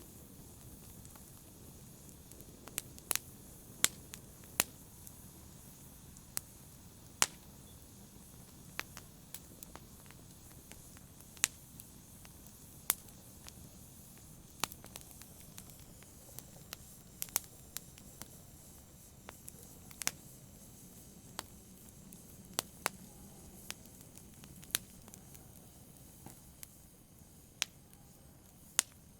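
Campfire burning: a low steady hiss with sharp, irregular pops and crackles of burning wood every second or so.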